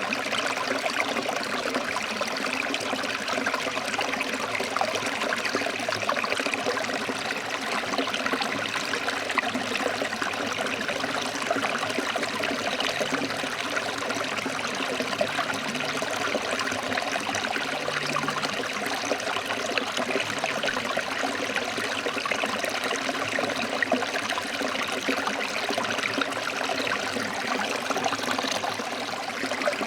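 Forest stream flowing and splashing over rocks: a steady, even rush of water.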